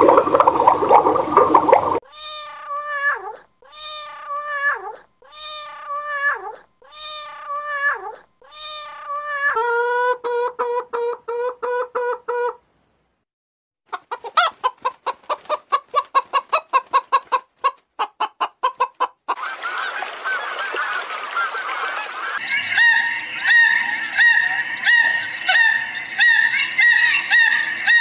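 A run of separate animal calls. First come five short pitched calls, each dropping in pitch at its end, then a steady call. After a short pause a hen clucks rapidly for about five seconds, about four clucks a second, and other pitched calls with a steady high tone follow near the end.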